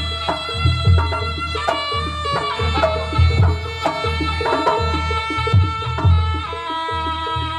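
Live jaranan accompaniment in Javanese traditional style: hand drums beat a lively rhythm under long, held melodic notes and ringing pitched percussion.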